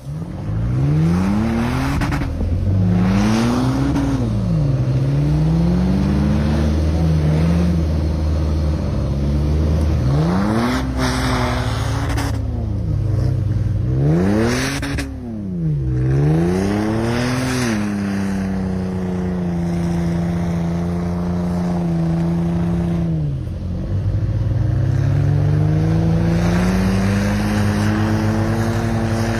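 A vehicle engine revving up and down in repeated swells every couple of seconds, then running at a steadier speed, dropping briefly near the end and climbing again.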